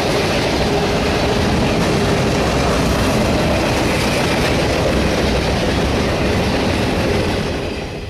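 Freight train rolling past close by, its steel wheels running on the rails in a loud, steady rush of noise that eases off in the last moment.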